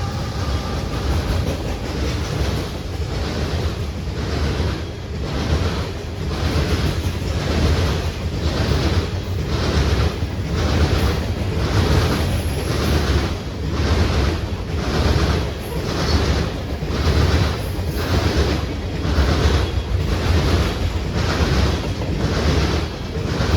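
A train rolling past close by: a loud rushing noise that swells and fades evenly, about once every 0.8 seconds.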